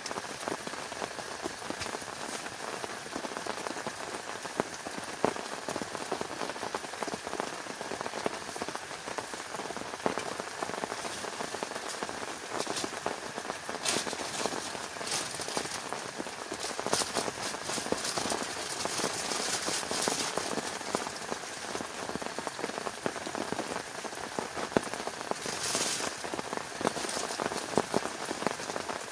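Heavy rain falling steadily, with many sharp drop hits on a close surface, growing heavier for a few seconds around the middle and again briefly near the end.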